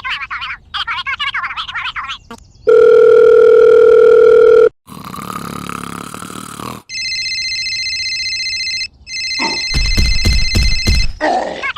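A string of electronic tones and sound effects. A warbling passage gives way to a loud steady tone like a dial tone lasting about two seconds, then a noisy buzz, then a high steady multi-note beeping, with a low rumble coming in under it near the end.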